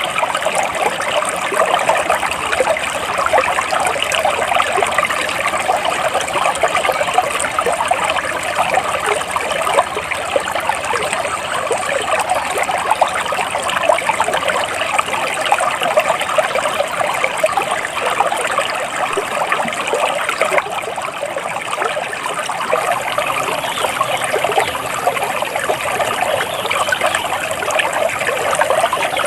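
Flowing water in a small stream, a steady, even trickling and splashing.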